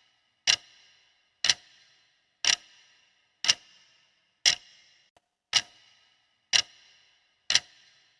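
Countdown timer ticking, one sharp clock tick a second, eight ticks in all, marking the time allowed to answer a quiz question.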